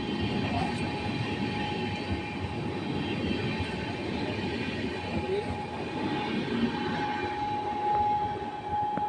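Train running on the rails: a steady rumble with a thin, high steady tone over it that grows louder near the end.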